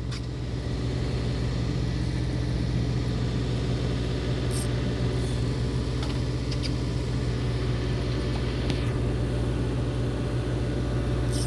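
A fishing boat's engine running steadily at idle, a low even hum, with a few faint clicks in the middle.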